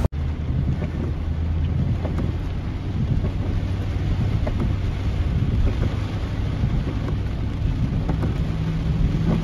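Storm wind and heavy rain beating on a moving car, heard from inside the cabin over a steady low drone of engine and road noise, with a few faint ticks scattered through it.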